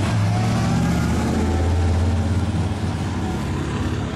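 Engine of an early-1960s Chevrolet sedan running at low speed as the car rolls slowly past, a steady low rumble that is loudest about two seconds in and then eases off as the car moves away.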